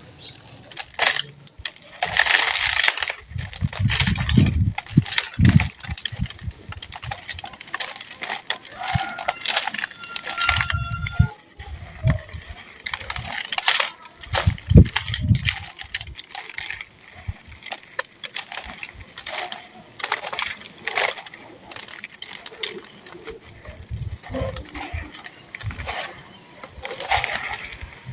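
Dry, brittle molded chunks being crunched and crumbled: a run of irregular gritty crunches and crackles, with a few duller thuds as pieces are pressed and broken.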